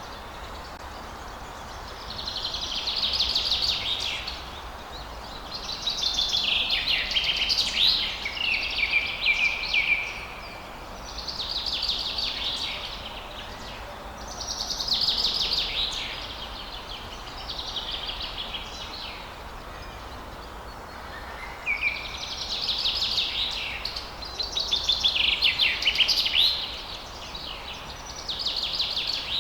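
A songbird singing a series of rapid, warbling song phrases, each two to four seconds long with short pauses between them, over a steady background hiss of outdoor ambience.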